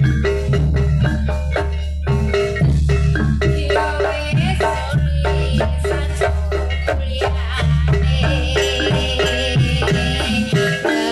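Live jaranan music: gamelan-style mallet percussion playing fast repeated notes over a steady low bass drone, with a wavering high tone coming in during the second half. The low drone drops out near the end.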